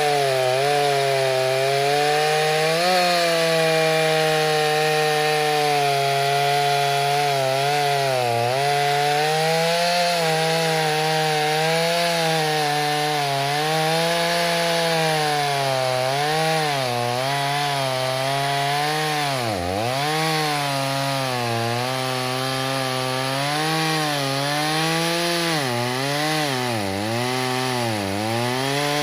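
Freshly rebuilt Stihl 029 two-stroke chainsaw cutting wood at high revs. The engine note sags and recovers repeatedly as the chain loads in the cut, with one sharp drop in revs about twenty seconds in.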